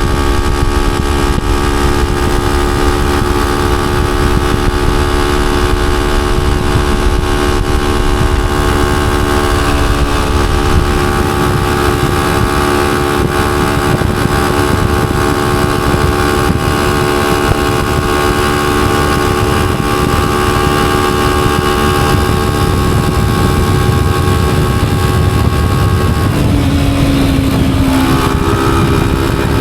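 Honda CG125's single-cylinder four-stroke engine running at a steady cruising speed, with wind rumble on the microphone. Near the end the engine pitch drops and shifts for a second or two, then holds steady again.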